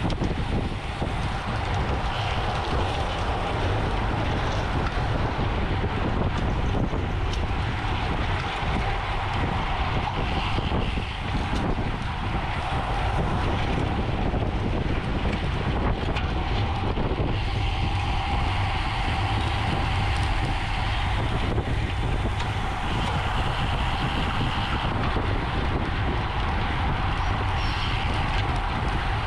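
Wind rushing over the microphone of a bicycle rider's camera at race speed, with a constant low rumble and a steady hum from the road.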